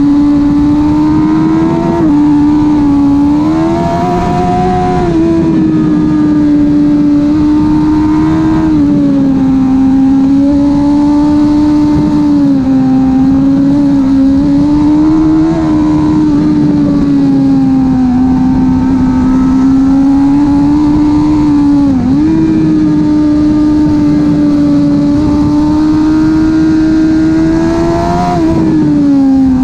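Suzuki GSX-R 1000 K5's inline-four engine with a slip-on exhaust, running hard at high revs, its pitch rising and falling with the throttle and dipping briefly a few times at gear changes, over rushing wind noise.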